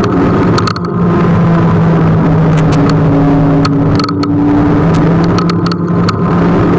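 Kugoo G1 electric scooter riding along: a steady motor hum with wind and road noise, broken by several short sharp knocks and clicks.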